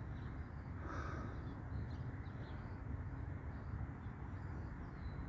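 A bird calls briefly about a second in, over a steady low background rumble, with faint higher bird sounds here and there.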